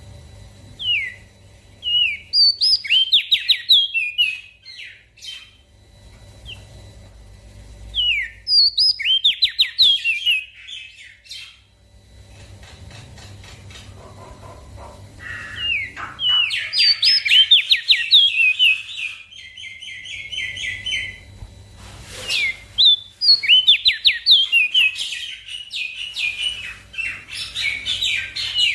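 A small songbird singing loud bursts of quick, sharply sliding chirps and chattering trills, broken by short pauses, over a faint low hum.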